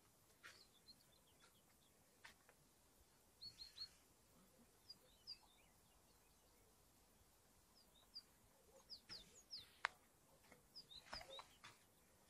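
Faint birdsong: scattered short, high chirps and quick downward-slurred notes from small birds, in loose groups with pauses between, plus a few soft clicks.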